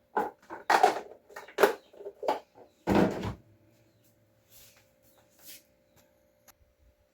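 Food containers and items being handled and set down in a refrigerator: a quick run of knocks and clatters over the first three and a half seconds, then a few faint ones. A faint steady hum runs underneath.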